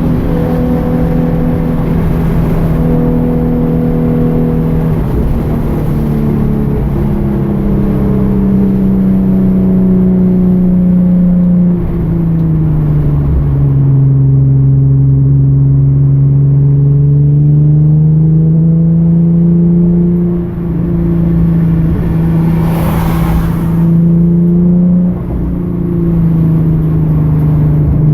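2013 Hyundai Genesis Coupe's 3.8-litre V6 driven on track, its note stepping and sliding up and down in pitch as the car accelerates, shifts and slows. A short hiss breaks in about three quarters of the way through.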